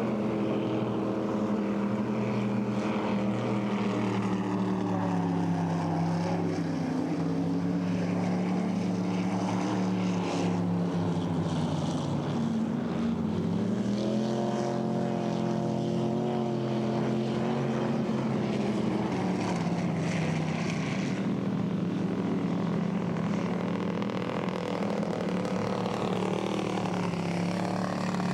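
Racing boat engine running hard. Its pitch sags slowly, dips briefly about halfway through, then climbs sharply as the throttle comes back on, and eases off again.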